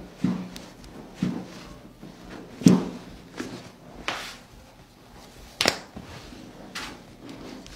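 A chiropractic adjustment: about seven sharp cracks and knocks spaced through several seconds, the loudest a little under three seconds in.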